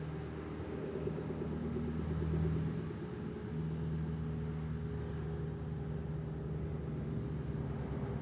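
Vehicle engine running steadily, a low hum with a brief dip and change in pitch about three seconds in.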